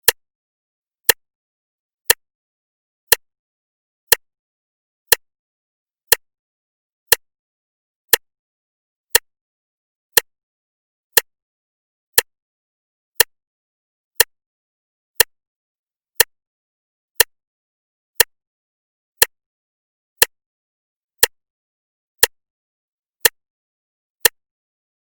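Clock ticking, one sharp, even tick a second, with silence between ticks.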